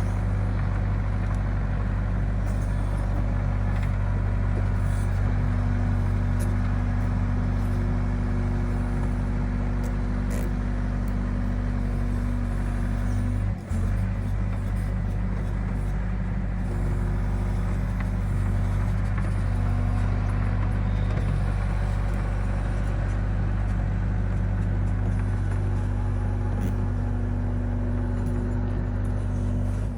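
Excavator's diesel engine running steadily with a constant low drone, dropping out briefly about fourteen seconds in.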